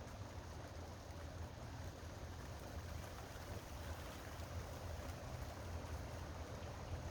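Storm wind blowing steadily, buffeting the microphone with a low rumble.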